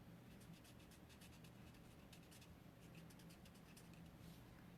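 Faint scratching of a felt marker tip coloring on cardstock, a scatter of small ticks over a low room hum.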